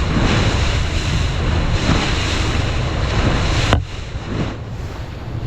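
Wind buffeting the microphone over rushing water and the low rumble of a motorboat running through choppy seas. A little under four seconds in, the sound cuts abruptly to a quieter stretch of the same ride.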